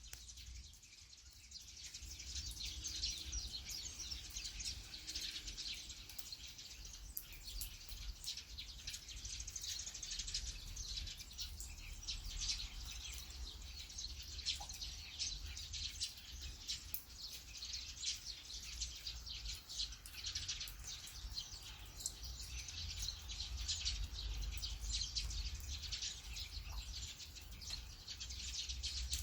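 Steady rain falling, a dense patter of many small drops throughout, over a constant low rumble.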